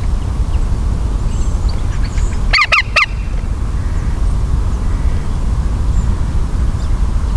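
Green woodpecker giving a quick burst of three or four harsh calls about two and a half seconds in, over a steady low rumble.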